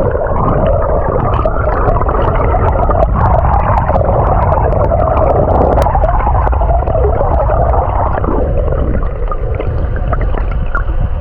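A small motorboat running at low speed, with water churning and gurgling around the hull in a steady, loud rumble that eases a little after about eight seconds.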